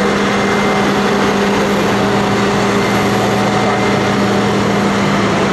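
Steady hum and high whine from a Boeing 787-9 and its pushback tug as the airliner is pushed back from the gate.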